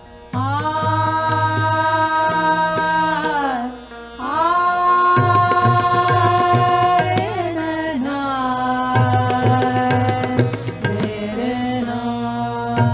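Indian classical music: tabla drumming under long held sung notes that bend at their ends, with brief breaks near the start and about four seconds in.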